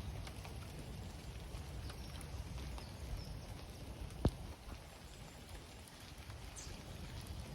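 Rain falling, a steady low hiss with scattered drips and one sharp tick about four seconds in.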